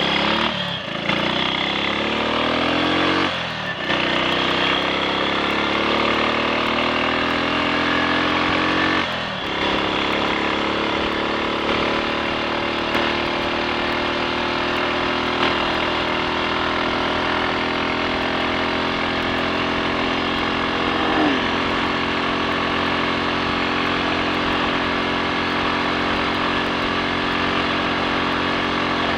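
Triumph Sports Cub's single-cylinder four-stroke engine pulling up through the gears, with short dips at the gear changes about one, four and nine seconds in. After that it runs steadily at cruising speed without missing or cutting out, the misfire cured.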